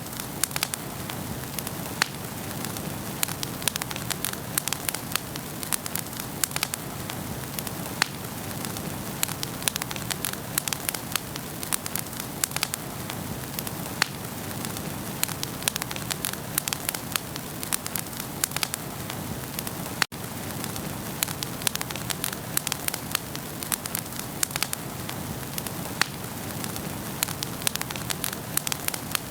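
Wood fire burning in a fireplace: a steady soft hiss of the flames with frequent sharp crackles and pops from the burning logs.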